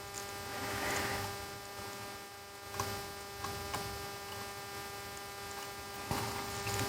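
Steady electrical hum with a higher whining tone, with a few faint ticks about three seconds in.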